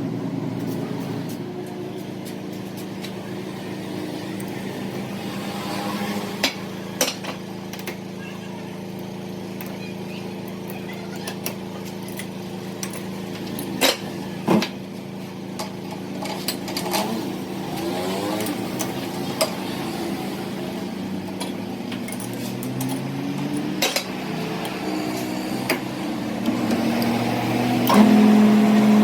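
Metal parts and tools clinking and knocking now and then over a steady machine hum, which gets louder near the end.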